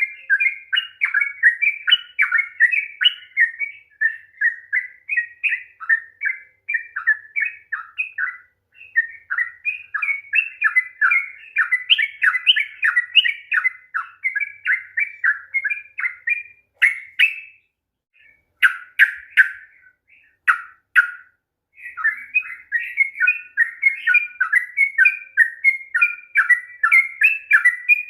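Yellow-vented bulbul singing a long, rapid run of chattering notes. About two-thirds of the way through it breaks off into a few separate notes and sharp clicks, then takes up the fast run again.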